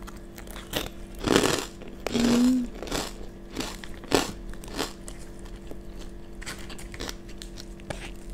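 Close-miked chewing of a mouthful of rice and kerupuk kulit (puffed beef-skin crackers), with soft crunches and wet mouth clicks and a louder crunch about a second and a half in. A short hummed "mm" comes about two seconds in.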